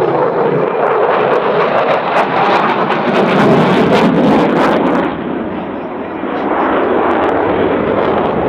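Jet noise of a Eurofighter Typhoon's twin EJ200 turbofans as the fighter flies its display, loudest about three to five seconds in with a ragged crackle, easing briefly, then steady again.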